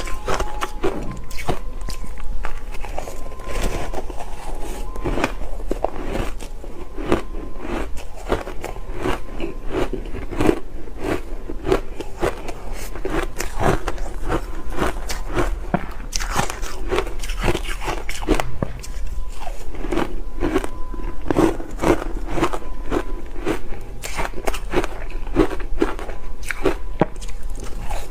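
Ice being bitten and chewed close to the microphone: dense, irregular crunching and cracking.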